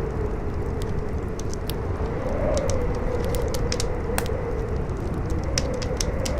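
Campfire crackling, with many sharp irregular pops, over strong wind howling: a steady low rush with a whistling tone that rises and falls, swelling about two and a half seconds in and again near the end.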